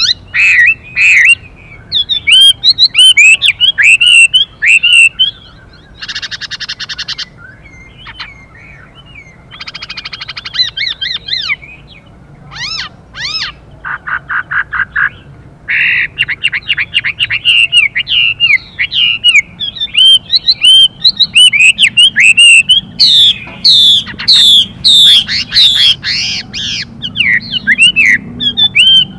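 Chinese hwamei (họa mi) singing loud, varied whistled phrases with quick sweeping notes. Harsh buzzy rattling calls break in twice in the first half and a fast pulsed rattle follows, typical of the female's 'xùy' calls. The song is dense and loudest through the second half.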